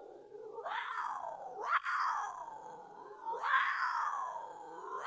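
An animal calling in drawn-out cries, each rising then falling in pitch; three follow one another, and a fourth begins near the end.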